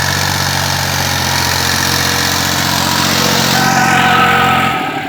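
New Holland 3630 tractor's diesel engine running steadily. Its low note drops away just before the end, and a few steady higher tones come in over it.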